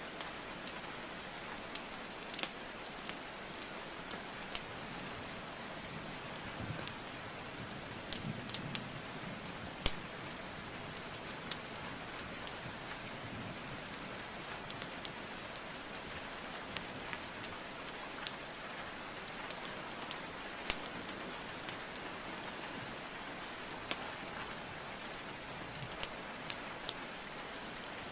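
Steady rainfall mixed with a crackling wood fire. Sharp pops and crackles of burning wood come at irregular moments over the even sound of the rain.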